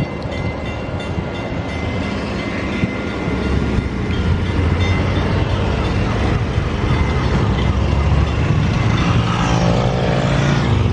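Low motor-yacht engine rumble that grows louder from about three seconds in, as a boat passes close by.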